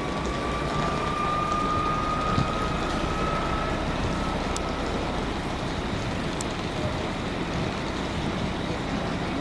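Train moving through the station: a steady rumble and hiss with a whine that rises slowly in pitch over the first few seconds, then fades. Two short sharp ticks come about halfway through.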